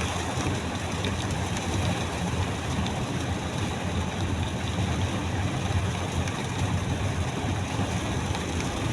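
Heavy rain drumming on a moving car, heard from inside the cabin over a steady low rumble of engine and road noise.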